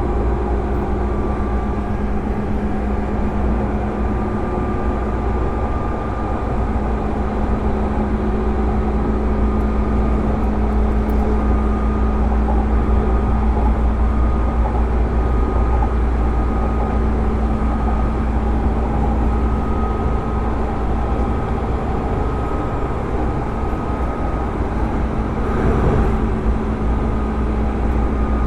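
Onboard running sound of a JR 205 series electric train motor car with MT61 externally fan-cooled traction motors: a steady drone of motors, gears and wheels on rail with a low rumble, a steady hum and a fainter higher whine that comes and goes. A brief swell in the noise near the end.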